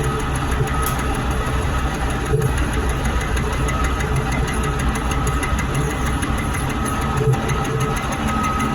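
Metal lathe running steadily, a continuous machine drone with no break.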